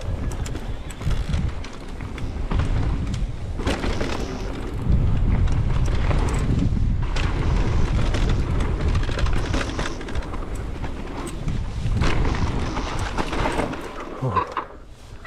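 Mountain bike riding down a dirt trail: wind buffets the microphone, the tyres rumble, and there are several sharp thuds from bumps and landings.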